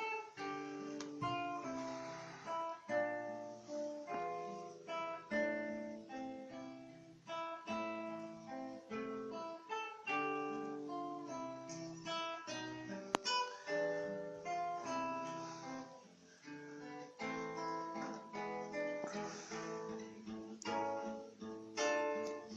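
Solo classical guitar playing a slow, fingerpicked piece: plucked melody notes over arpeggios and a bass line, with one sharp click about thirteen seconds in.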